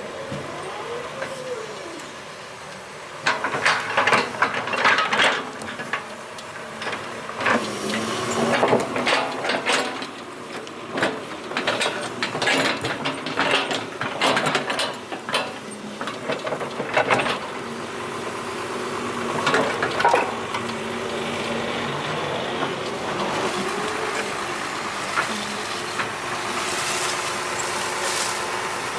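Excavator engine running, its pitch swelling and falling as the load changes, with many sharp metal clanks and knocks through the first two-thirds, then a steadier run.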